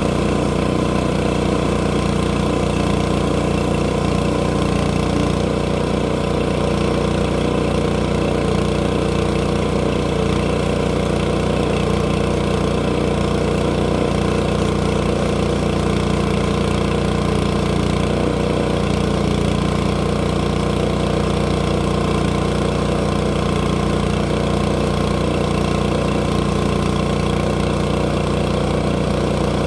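Sawmill's engine running steadily at a constant speed.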